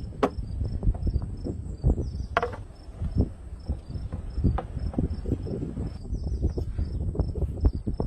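Insects chirping in short repeated pulses over a steady high drone, with frequent irregular low knocks and thumps throughout, and a couple of sharper clicks.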